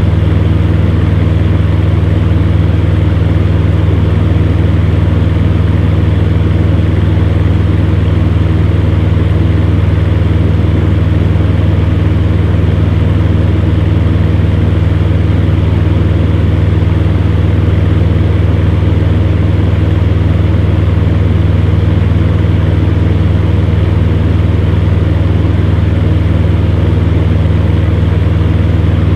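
Electric fan heater running steadily: a strong, even low hum from the motor over a constant rush of air.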